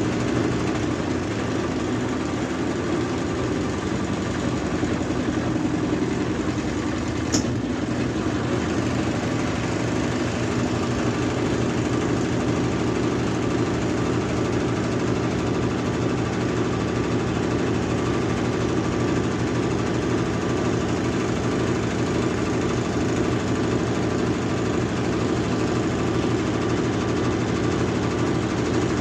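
Brastemp Ative BWG11A 11 kg washing machine running its spin cycle: a steady mechanical hum with no let-up, and one short click about seven seconds in.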